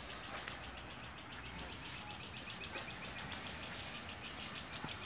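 Faint outdoor background with small birds chirping repeatedly, many short high chirps over a low, steady noise.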